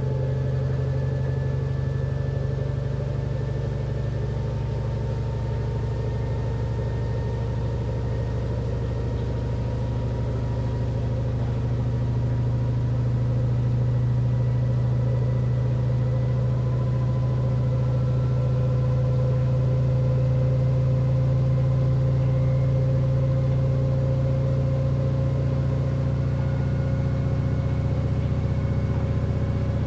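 LG inverter direct-drive washing machine in a spin: a steady hum with a whine that slowly rises in pitch as the drum speeds up, growing a little louder partway through. The spin is most likely to drain the remaining wash water from the clothes.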